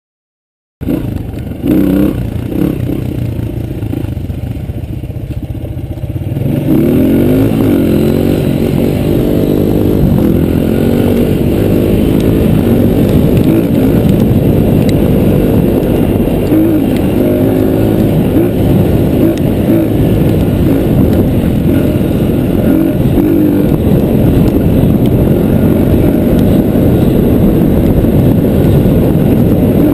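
Dirt bike engine running, heard from on the bike: quieter for the first few seconds, then revving up as the bike pulls away, the revs climbing and dropping several times as it shifts up through the gears. It then keeps running under steady load for the rest of the ride.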